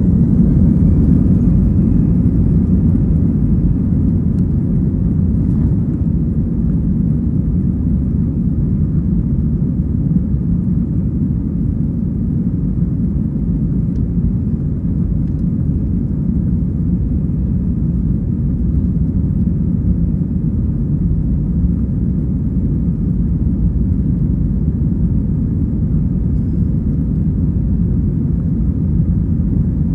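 Airbus A320's CFM56 turbofan engines heard from inside the cabin, spooling up with a rising whine over the first couple of seconds and then holding a steady, loud roar with a deep rumble at takeoff power.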